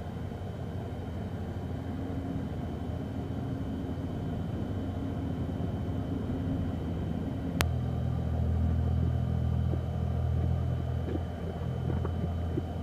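Steady low mechanical rumble and hum with a faint steady high tone above it; a single sharp click comes about seven and a half seconds in, after which the low hum is louder.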